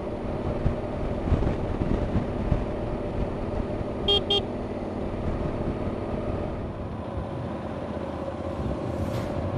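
Yamaha Super Tenere XT1200Z parallel-twin engine running steadily under way, with wind and road rumble. About four seconds in come two short high-pitched beeps.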